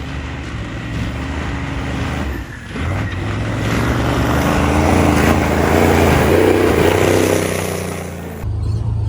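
Turbo IDI diesel engine of a stub truck working hard through sand whoops. It eases off briefly about two and a half seconds in, then pulls again under a rising rush of noise that is loudest about two-thirds of the way through.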